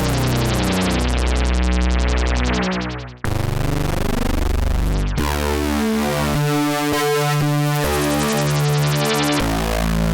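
BLEASS Monolit monophonic software synthesizer playing a sequence of held, buzzy bass notes. About three seconds in the sound dies away and cuts back in with a different tone, the notes then changing every second or so.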